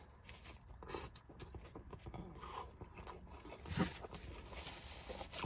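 A bite into a soft, sauce-soaked burger, then quiet chewing with the mouth closed: a few faint wet mouth sounds, the loudest just before four seconds in.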